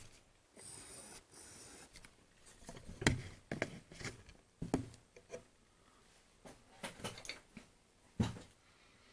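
Small telephone parts being handled on a workbench: scattered clicks, taps and knocks, with a brief high hiss about half a second in.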